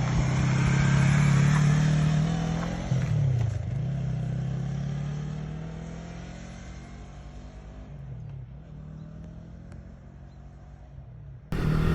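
A motor vehicle's engine pulling away, its pitch dropping and climbing again twice as it shifts gears, growing steadily fainter.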